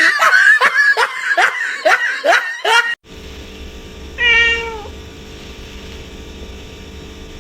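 A cat meowing loudly in a quick run of short calls, about three a second, that cuts off sharply after about three seconds. Then, over a steady low hum, comes a single longer meow that falls in pitch.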